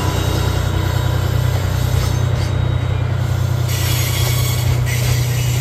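Freight train of oil tank wagons rolling past close by, a steady rumble of wheels on the rails.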